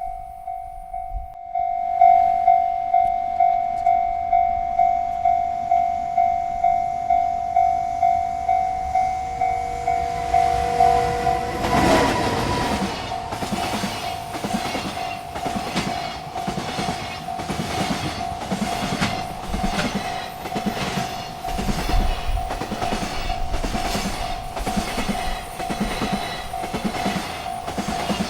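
Railroad crossing bell ringing about twice a second. About twelve seconds in, a freight train passes over the crossing, its wheels clattering over the rail joints in a steady rhythm while the bell keeps ringing underneath.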